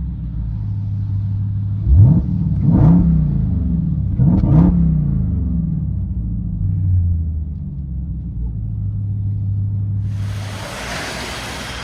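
Jeep Grand Cherokee Trackhawk's 6.2 L supercharged V8 through a Solo Performance cat-back exhaust, heard from inside the cabin: a low idle drone, blipped twice about two seconds apart, each rev rising and falling quickly. Near the end a steady rush of noise comes in over the idle.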